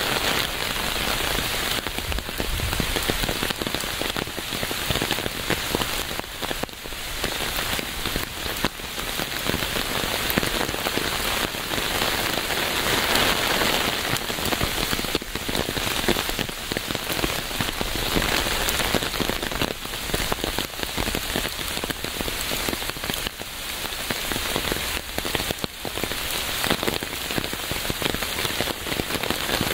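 Steady rain falling on a surface, a dense patter of many drops.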